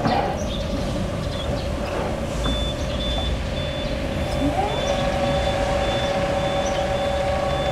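BT RRE-2-15 electric reach truck running: a steady electric motor whine, with a high warning beeper going about twice a second from about two and a half seconds in. Near the middle a second whine rises in pitch and then holds.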